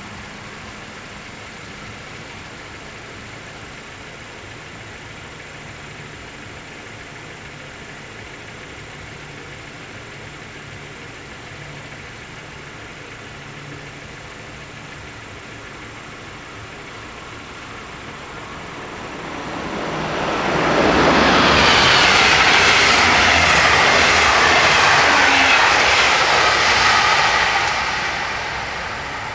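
Passenger train passing over a level crossing: a loud rush of wheel and rail noise builds about 19 seconds in, holds for about six seconds and then fades. Before it, only a low steady hum.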